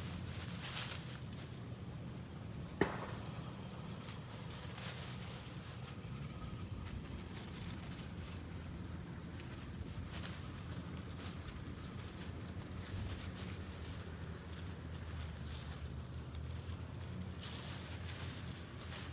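Quiet outdoor ambience with faint high insect chirping and scattered light knocks and rustles, and one sharp click about three seconds in.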